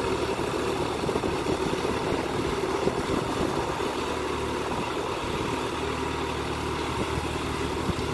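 Mahindra tractor's diesel engine running at a steady speed while ploughing a field.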